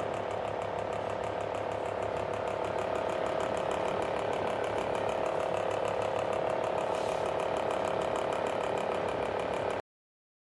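Small electric fan heater running with a steady whir and a fast, even rattle; it starts and stops abruptly.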